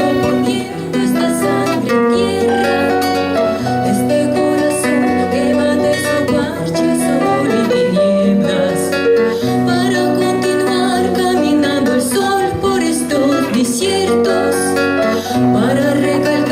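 A band playing live: a bright plucked-string melody over a steady bass line, with some singing.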